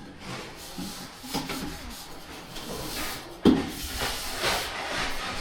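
Rubbing and scraping noises with one sharp knock about three and a half seconds in.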